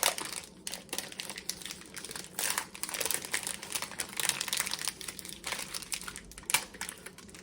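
Chocolate-bar wrapper being torn open and handled, crinkling on and off, with one sharp crackle about six and a half seconds in.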